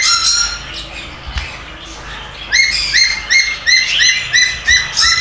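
A caged bird giving the same short, high chirp over and over, about three a second. It stops about half a second in and starts again about two seconds later.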